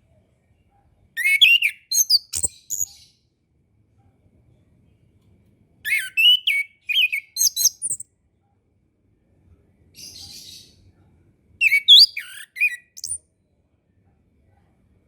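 Chestnut-capped thrush (anis kembang) singing: three short phrases of rapid, varied high notes a few seconds apart, with a softer scratchy phrase just before the third.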